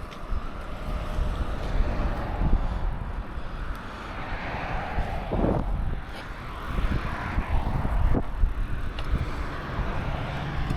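Wind buffeting the microphone of a rider on a moving bicycle, a steady low rumble with a road hiss that swells twice.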